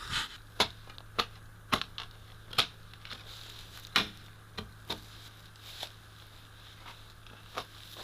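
A shovel digging in stony ground: about a dozen irregular sharp knocks and scrapes as the blade strikes stones and soil, over a faint steady low hum.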